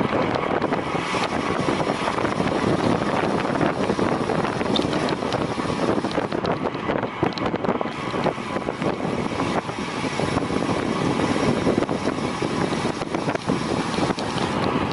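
Steady rush of wind over the microphone of a camera carried by a road cyclist riding at race speed, mixed with road and riding noise.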